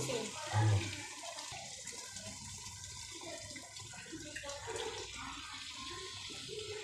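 Chicken pieces sizzling and bubbling in hot oil and fried masala in an aluminium pot, a steady hiss. A brief low thud comes just after the start.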